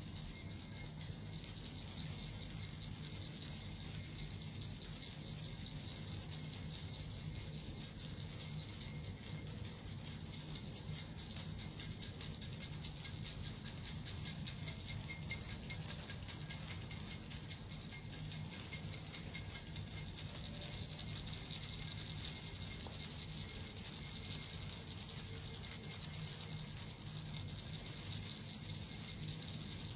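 Small hand-held jingle bells shaken without a break: a steady, dense jingling with no pauses.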